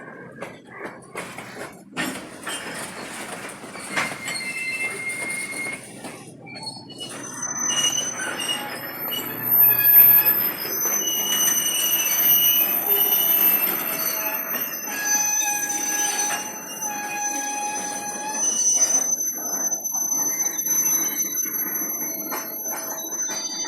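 Freight cars rolling slowly with their wheel flanges squealing in several high pitches that come and go, over a rumble with scattered knocks and clanks. The cars sound empty.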